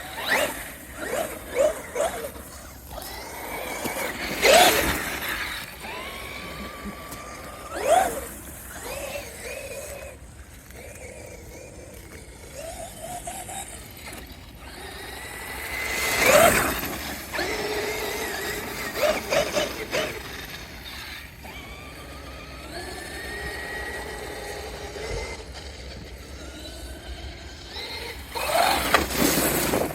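Large RC car driving through grass, its drivetrain whining and rising and falling in pitch with the throttle, with a few sharp knocks of the car bouncing or hitting things.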